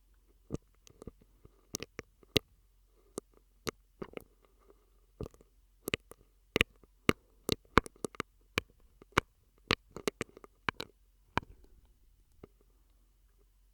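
Mouth sounds made through a drinking straw: irregular sharp clicks and pops, coming thickest about halfway through, with soft breathy noise between them.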